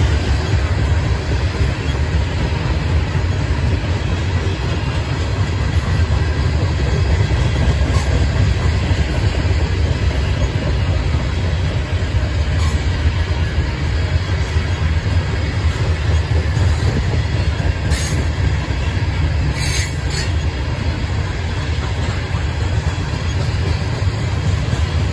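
A long train of loaded coal hopper cars rolling past with a steady low rumble of wheels on rail. Two-thirds of the way through there are a couple of brief high-pitched wheel squeals.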